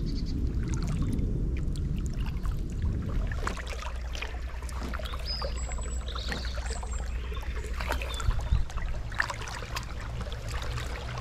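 Kayak paddle strokes: water splashing and dripping off the blades as the kayak moves along, over a steady low rumble. A few brief high chirps come in the middle, and there is a sharp knock about eight seconds in.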